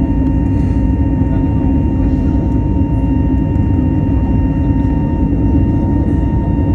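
Jet airliner engines running steadily, heard from inside the passenger cabin during the climb after takeoff: an even, loud rush with a constant hum and a few steady whining tones over it.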